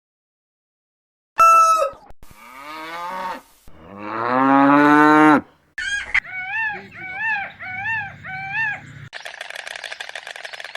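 A cow mooing once, long and loud, about four seconds in, set among other short animal calls in quick succession: a brief high call before it, then five repeated arching calls and a buzzy call near the end.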